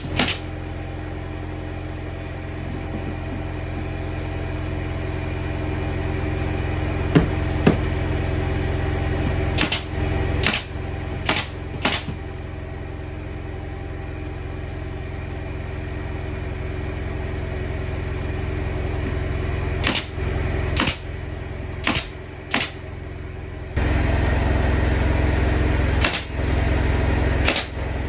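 An engine running steadily with a low hum that slowly grows louder and steps up near the end, broken now and then by short sharp knocks or cuts.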